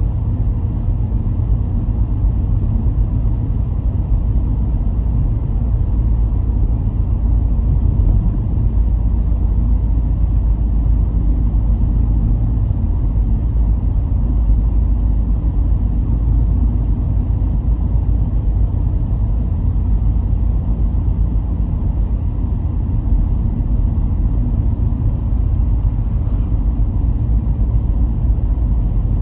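Car driving at a steady pace: a continuous low rumble of engine and road noise with no changes in pitch or level.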